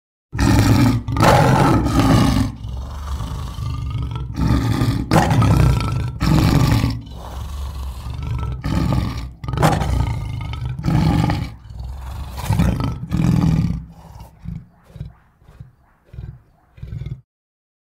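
Edited sound effects of a cartoon cougar roaring: a string of loud roars one after another, then shorter, fainter ones over the last few seconds before they cut off.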